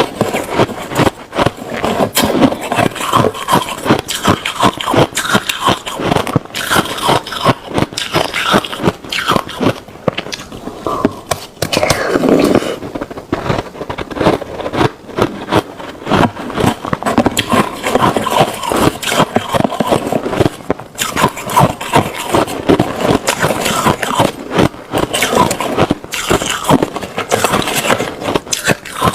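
Ice being bitten and chewed close to the microphone: dense, rapid crunching and crackling, with short pauses between mouthfuls.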